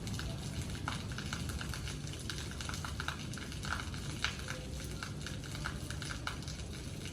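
Rain falling steadily, with drops tapping and dripping irregularly on a hard surface close by.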